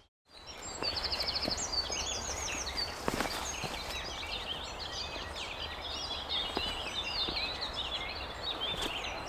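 Several songbirds singing and chirping together, with a fast trill about a second and a half in. A few soft knocks of footsteps on stone.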